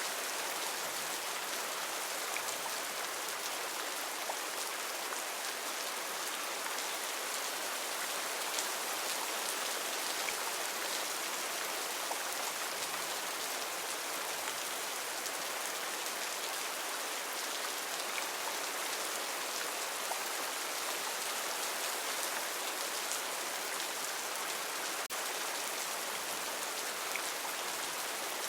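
Heavy rain falling steadily, a dense even hiss of drops with scattered sharper patters.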